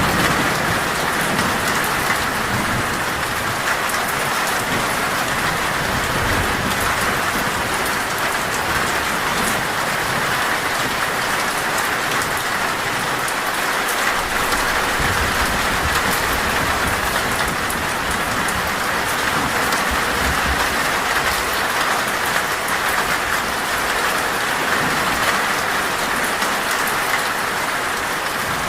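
Heavy rain drumming steadily on a metal roof: a dense, unbroken patter at an even level throughout.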